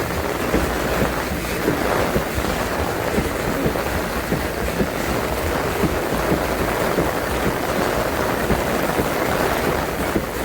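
Heavy rain and strong storm wind buffeting the microphone, a dense rushing noise over a steady low rumble, with rain crackling throughout.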